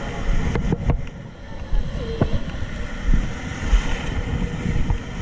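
Wind buffeting the microphone over the wash of ocean surf, with a few faint clicks near the start and a brief distant voice-like call about two seconds in.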